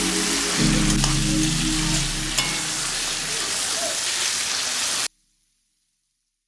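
Food sizzling and frying in hot oil in a pan, with a few light clicks of stirring. It cuts off suddenly about five seconds in.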